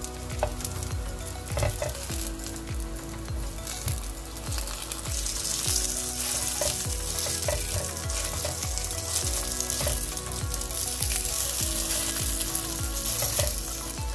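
Burger patty sizzling as it fries in melted butter in a ridged grill pan, the sizzle growing stronger about a third of the way in. Scattered light clicks and scrapes come from a metal fork and spatula working the patty.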